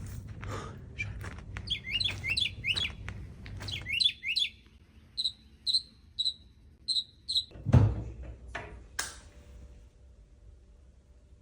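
A small bird chirping: a quick run of rising chirps, then a series of six short, evenly spaced high notes. A single loud knock comes about eight seconds in.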